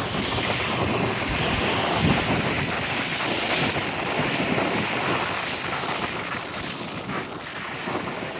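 Aircraft engine noise from an airplane flying past, a steady rushing sound that is loudest in the first few seconds and slowly fades.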